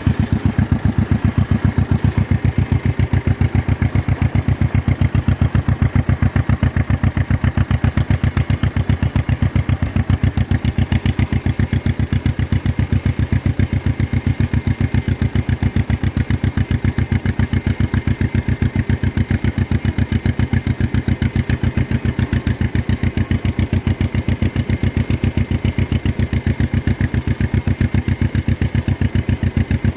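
1953 John Deere 40 tractor's two-cylinder engine running at a steady, even speed, with rapid regular firing pulses.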